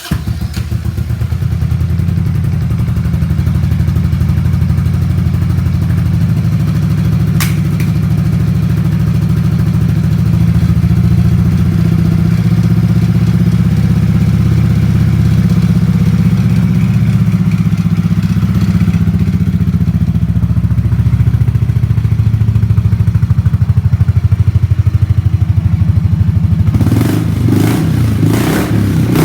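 Buell Blast's single-cylinder engine idling on a cold start, with a fast, steady thumping. Near the end it is revved up in a few quick surges.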